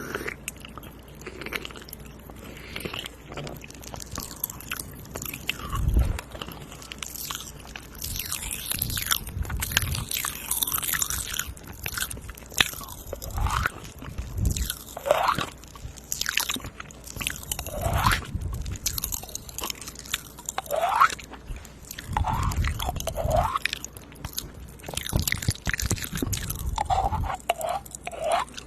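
Close-miked ASMR mouth sounds with a spoon: an irregular stream of wet clicks, smacks and crunchy bite sounds, with short squeaky glides now and then.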